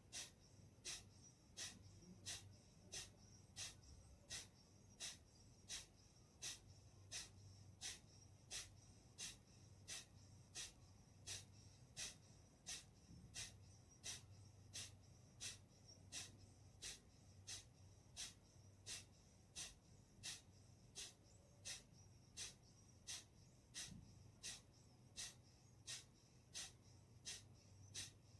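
Kapalbhati breathing: short, sharp, forceful exhalations through the nose in a steady rhythm, about three every two seconds, faint.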